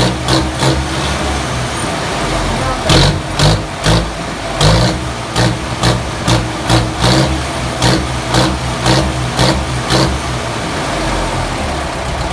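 Engine running after a crankshaft repair with genuine parts, blipped in quick short revs about twice a second for several seconds, then settling to a steady idle near the end.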